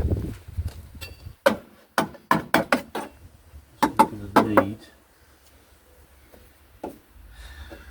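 A series of sharp knocks and taps: one about a second and a half in, a quick cluster of several around two to three seconds in, another cluster around four seconds in, then a quiet stretch with a single knock near the end.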